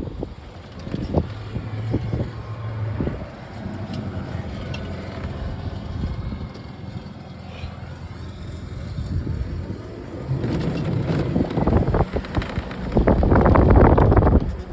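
A car engine running, with wind buffeting the microphone; the rumble gets louder near the end.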